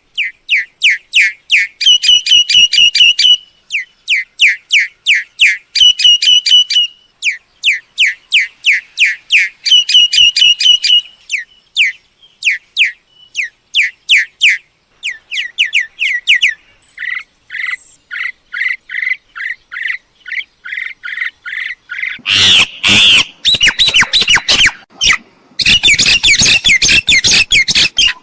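Myna calling: rapid runs of short, downward-sweeping whistled notes, several a second, broken by brief pauses. About three-quarters of the way through, loud harsh squawks take over.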